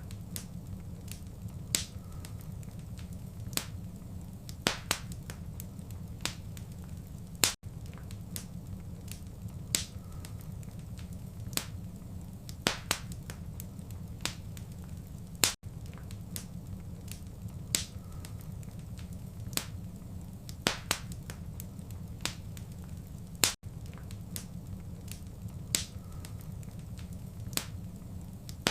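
Wood fire crackling in a fireplace: a steady low rumble of the flames with sharp, irregular pops and snaps every second or so. Brief gaps about every eight seconds where the recording loops.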